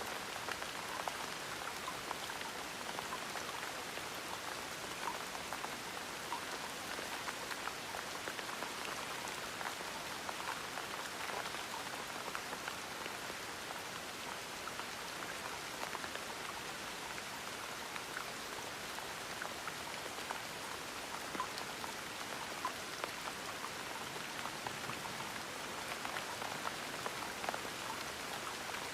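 Steady gentle rain: a constant hiss with scattered individual drops ticking.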